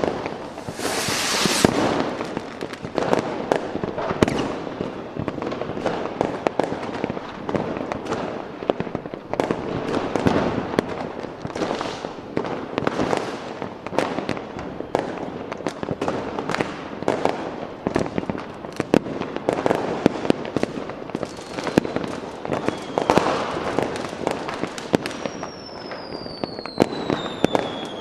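Fireworks going off in a continuous barrage of bangs and crackling, dense throughout. Near the end a couple of whistles glide downward in pitch over the bangs.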